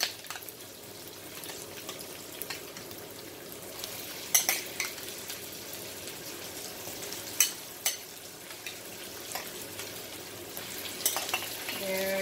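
Onions and garlic sizzling steadily as they are sautéed in a pan. A stirring utensil clicks against the pan a few times.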